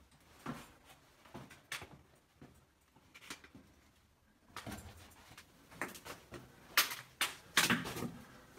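Footsteps scuffing and crunching on rock and grit. They are sparse and irregular at first, then come quicker and louder in the second half.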